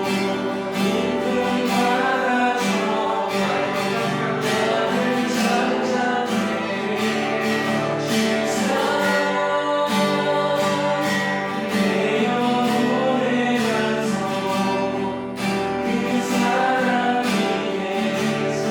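Worship song with group singing over strummed guitar, continuing without a break.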